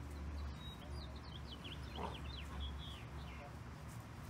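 Bird chirping: a quick run of short, high chirps from about half a second in until nearly three seconds in, over a low steady rumble.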